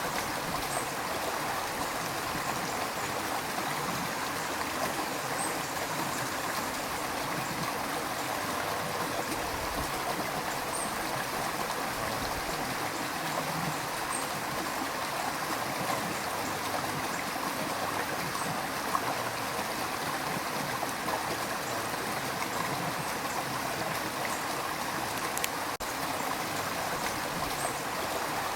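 River water rushing and gurgling over rocks in a steady, even wash of noise.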